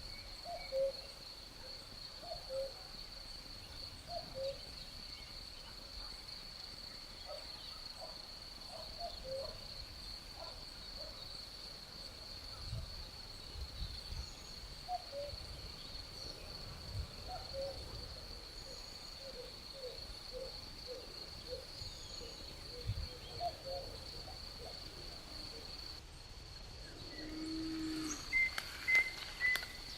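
A cuckoo calling its falling two-note "cuck-oo" about every two seconds over a continuous high, steady cricket trill. Midway the low notes come in a faster run, with a little low rumble of breeze, and near the end a few higher bird chirps.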